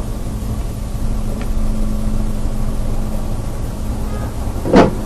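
A car driving, heard from inside the cabin: steady low road and engine rumble. Near the end there is one sudden loud bang, followed by a weaker knock.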